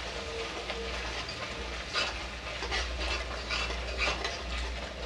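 Onion-garlic masala paste frying in a metal kadhai, sizzling steadily, while a spatula stirs it and scrapes against the pan a few times.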